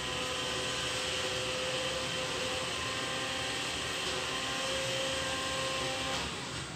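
A small motor running steadily with a fixed whine, then stopping about six seconds in.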